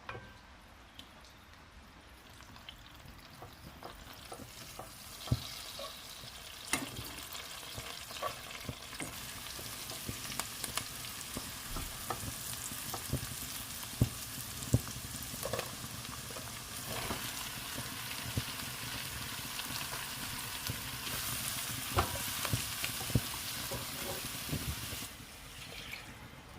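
Food sizzling in a frying pan while it is stirred, with utensils knocking against the pan now and then. The sizzle builds up over the first few seconds and cuts off sharply near the end.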